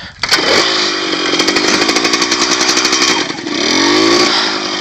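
Dirt bike engine starting, catching about a quarter second in and then running steadily, revved up and back down once about three seconds in before settling again.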